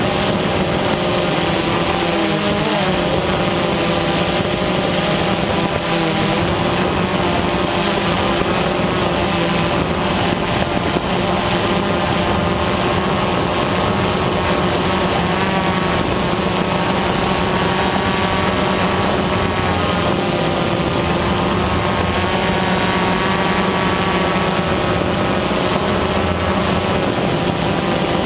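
DJI Phantom quadcopter's four motors and propellers whining steadily in flight, a dense chord of steady tones whose pitches waver slightly a few seconds in, over a steady rush of wind.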